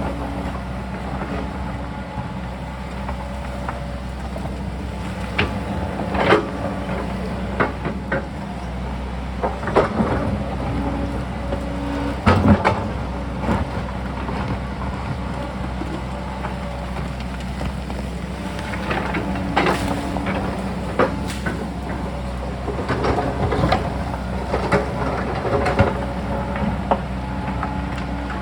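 Sany excavator's diesel engine running steadily while the bucket works rock and earth, with irregular knocks and clatters of steel on rock.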